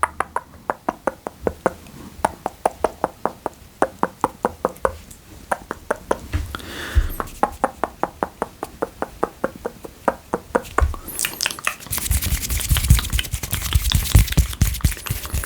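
Close-miked wet mouth sounds: a long run of sharp clicks at about five a second, giving way over the last few seconds to a denser wet crackling.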